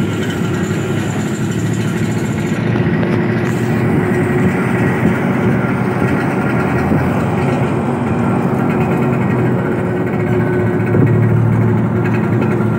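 Vespa scooter's two-stroke engine running steadily while riding, mixed with wind and road noise; the low engine note gets a little stronger about two seconds before the end.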